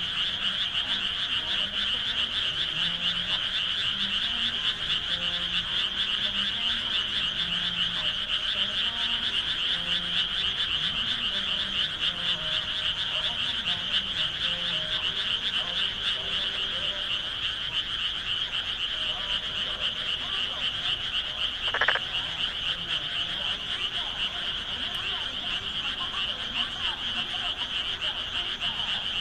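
A dense, steady chorus of many frogs calling in the rice paddies, with lower, deeper calls coming and going underneath. A single brief sharp sound cuts through about three-quarters of the way in.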